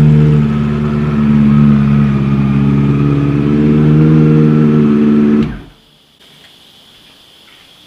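Honda CB400 motorcycle engine running through a Delkevic mini carbon fibre shorty slip-on exhaust, a loud, steady exhaust note that stops abruptly about five and a half seconds in.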